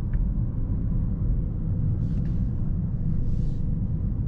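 Steady low rumble of a Mercedes-AMG S63 sedan driving, heard from inside the cabin, with two brief hisses about two and three and a half seconds in.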